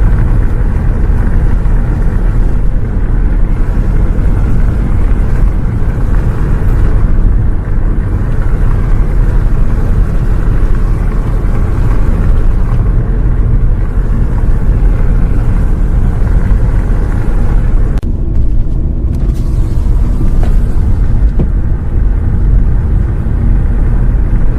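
Steady low rumble of a bus on the move, heard from inside: engine and road noise.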